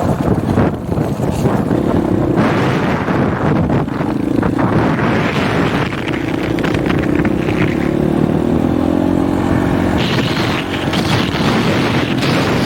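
Husqvarna 501 dirt bike's single-cylinder four-stroke engine running under way at cruising speed, its note creeping up a little in the middle, under heavy wind buffeting on an unshielded microphone.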